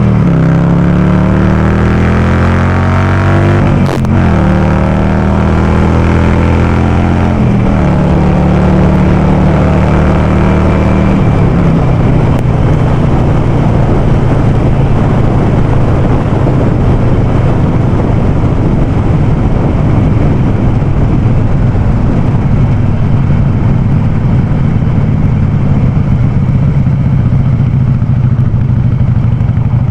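Harley-Davidson Sportster Forty-Eight's air-cooled V-twin running through a loud Vance & Hines aftermarket exhaust. It pulls up through the revs with gear changes about four seconds in and again near eight seconds, then runs at steady revs for the rest.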